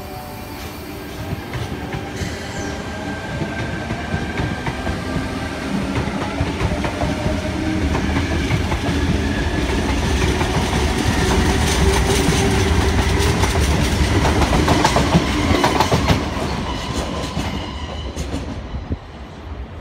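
Sydney Trains Tangara electric train running past along the platform, its wheels clacking over the rails. It gets louder toward the last third, then drops off sharply near the end.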